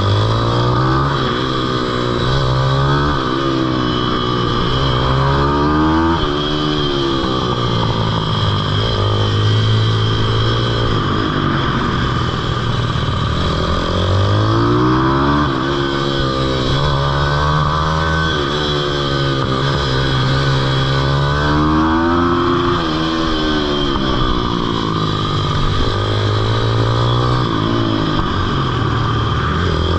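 Small single-cylinder pitbike engine revving up and dropping back again and again as the bike accelerates and slows, its pitch rising and falling several times.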